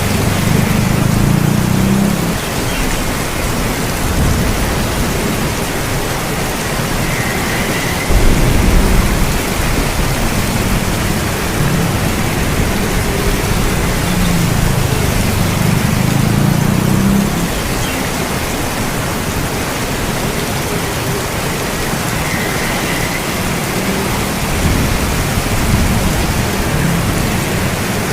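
Heavy, steady rain, with low rolls of thunder swelling and fading several times, strongest near the start, about eight seconds in, and around fifteen seconds in.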